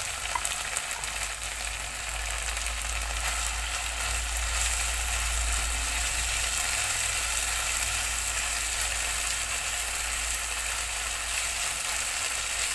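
Shredded tempeh in a sticky palm-sugar chilli sauce, with sliced green bird's-eye chillies, sizzling steadily in a non-stick wok while a spatula stirs it. A low rumble comes in underneath about two seconds in and fades a few seconds later.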